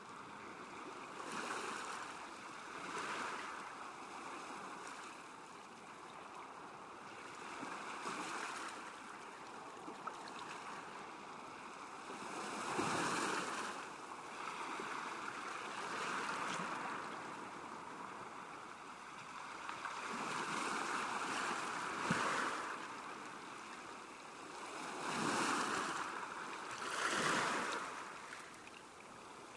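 Small lake waves lapping at the shore: a continuous wash of water that swells and falls back every few seconds, with louder laps about halfway through and twice near the end.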